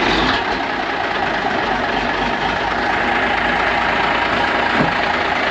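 Diesel lorry engine idling steadily.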